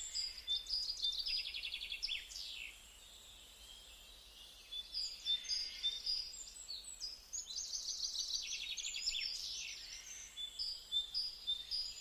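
Songbirds chirping and trilling, with quick high notes and fast runs of repeated notes. The birds fall quiet for about two seconds about a quarter of the way in, then pick up again.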